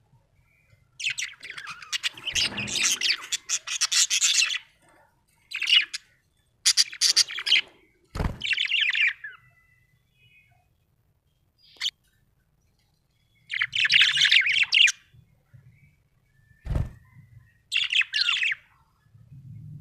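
Small parrot chirping in rapid, scratchy bursts of a second or two with short pauses between them. Two dull thumps, one about eight seconds in and one near the end.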